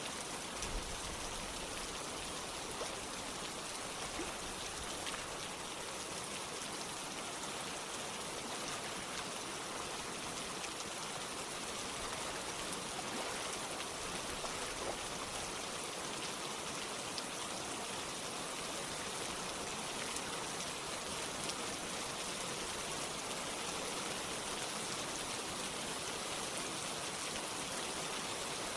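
Steady rain falling together with running water, an even hiss with scattered drop ticks.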